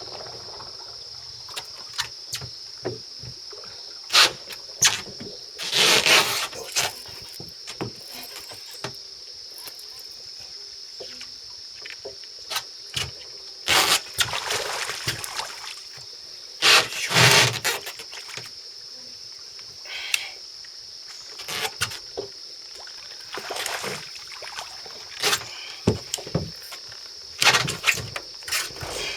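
Irregular splashes and knocks from a bass being fought at the side of a small rental rowboat, a few longer splashing bursts among sharp short knocks. A steady high-pitched insect drone runs underneath.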